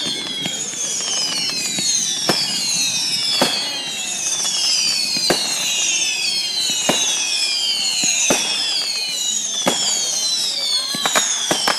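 Firework display: a steady run of whistling fireworks, each a high whistle falling in pitch and overlapping the next. Sharp bangs come every second or two, and a quick cluster of cracks follows near the end.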